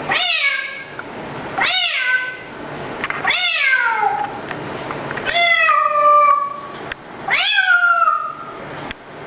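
Five drawn-out meows, each about a second long, rising then falling in pitch, coming about every one and a half to two seconds.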